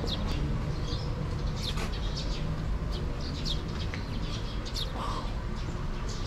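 Birds chirping now and then, short high calls that fall quickly in pitch, over a steady low rumble of outdoor ambience.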